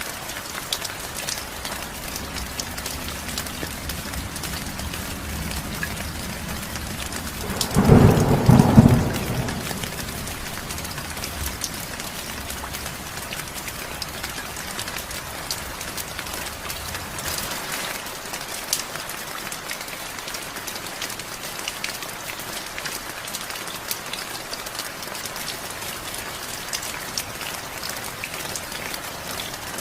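Steady heavy rain, with one loud clap of thunder about eight seconds in that rumbles low and dies away over a second or two.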